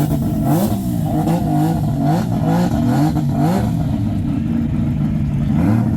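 Car engine being blipped: revs rise and fall about once a second for several seconds, then settle to a steadier run with one more small rise near the end.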